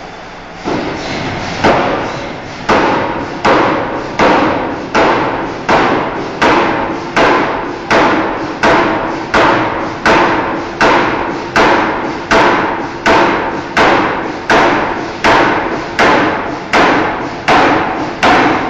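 Forging hammer striking a steel bar in a steady, even rhythm, about three heavy blows every two seconds, each blow ringing briefly, over a background machine rumble.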